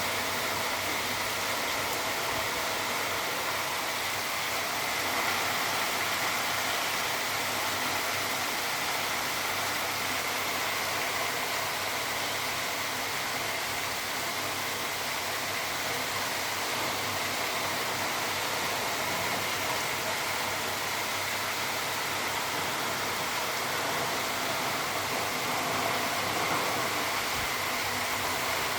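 Steady rainfall, an even hiss of rain that holds at one level throughout.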